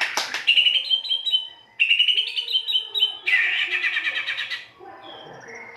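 White-rumped shama (murai batu) singing a harsh, varied song. Quick clicking notes open it, then two runs of short falling whistles, then a dense, harsh rattling phrase a little past the middle that trails off into quieter notes near the end.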